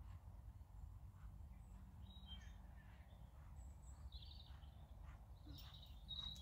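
Near silence: a steady low rumble with a few faint, short bird calls about two, four and six seconds in.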